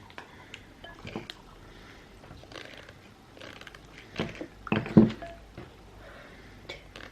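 Scattered light taps and clicks of hands and utensils working at a kitchen table, with a louder short burst of knocking about five seconds in.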